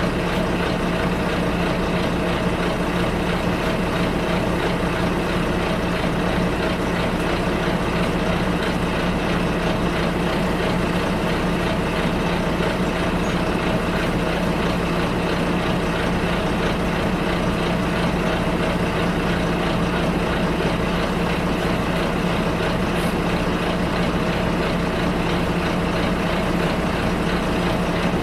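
Bus heard from inside the cabin, its engine running with a steady low hum and a constant rumble of noise that does not change.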